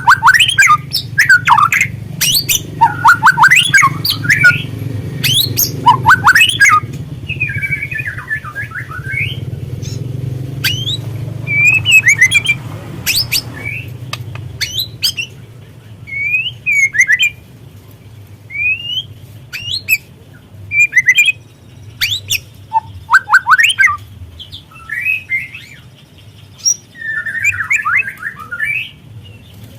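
Young white-rumped shama (murai batu trotol) singing a busy run of sharp, quickly falling notes mixed with short warbled phrases, over a steady low hum that fades about halfway through. This kind of song is used as a lure recording to stir other shamas into singing.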